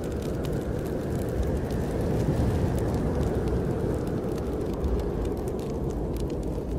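Snowstorm wind rushing steadily, swelling a little midway, with a wood fire crackling in small sharp pops throughout.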